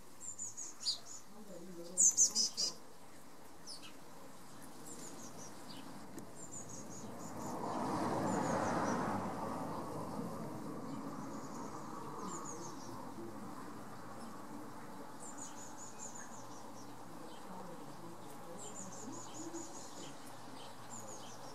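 Small garden birds chirping and twittering in short, high calls, with a loud cluster of chirps about two seconds in. A rushing noise swells around eight seconds in and slowly fades.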